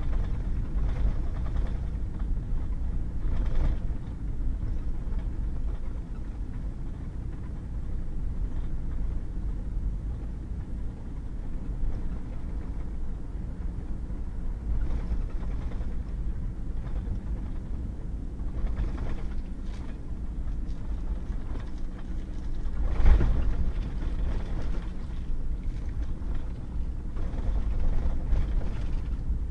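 Pickup truck driving on a wet, muddy gravel road: a steady low rumble of engine and tyres, with a few bumps, the loudest about two-thirds of the way through.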